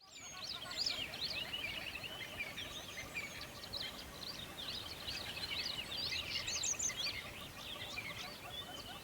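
A dense chorus of many small birds chirping and twittering at once, the calls overlapping without a break.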